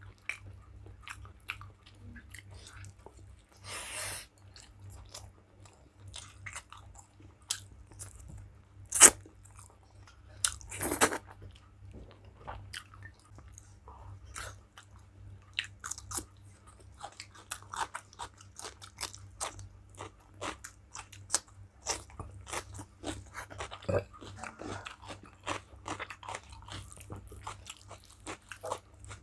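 A person eating close to the microphone: chewing and crunching with many small clicks, with a few louder crunches, one about four seconds in and two more around nine and eleven seconds in.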